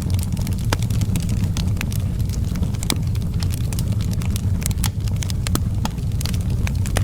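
Wood fire in an outdoor fireplace crackling: frequent sharp pops and crackles at irregular intervals over a steady low rumble.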